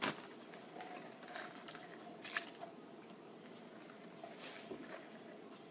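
Quiet chewing of French fries, with a few faint clicks.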